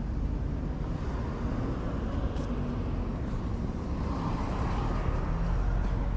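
Steady vehicle road noise, a low rumble with no clear events.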